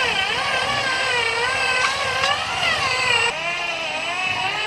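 A high-pitched voice whose pitch keeps wavering up and down without a break, over a faint low rumble.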